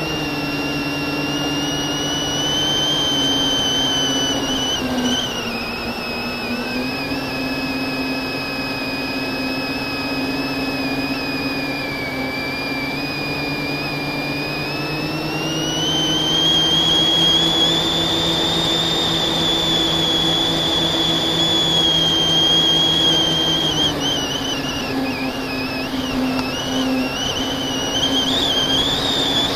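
FPV quadcopter's brushless motors and propellers whining steadily, the pitch sagging and rising with the throttle. The pitch climbs about halfway through, holds, then drops back near the end.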